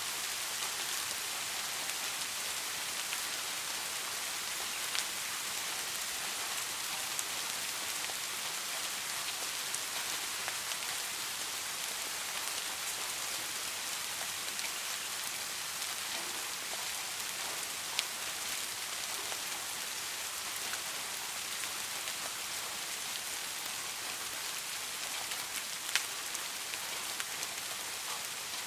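Steady rain: an even hiss of many drops, with a few sharper single drop ticks standing out now and then.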